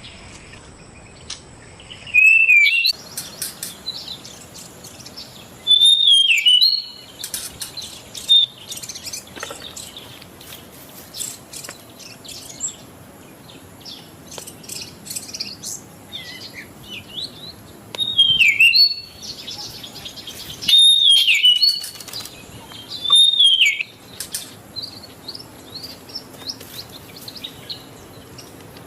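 White-rumped shama singing: five loud phrases of quick gliding notes, spread across the stretch, with softer chirps and twitters in between.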